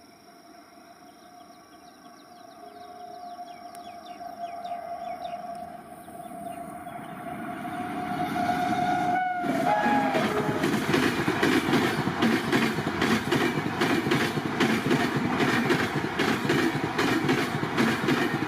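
An electric express train approaches and passes at speed. First comes a building rumble with a held horn tone as it nears. From about halfway on, a loud, rapid clickety-clack of the coaches' wheels over the rail joints carries on steadily.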